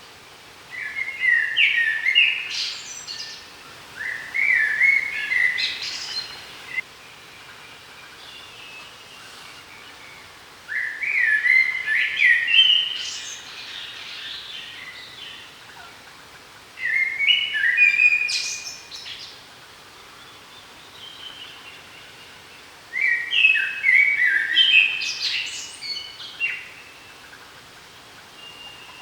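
A songbird repeating the same short song five times, about every six seconds. Each song is a quick run of notes stepping down in pitch and ending in a higher flourish.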